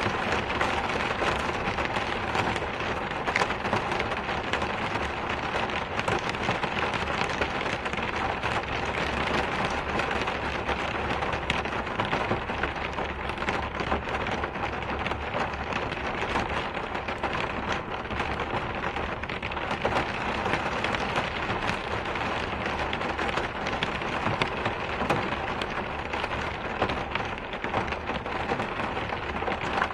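Steady rain falling: a dense, even hiss of drops hitting a surface, with many small sharp ticks of individual drops through it.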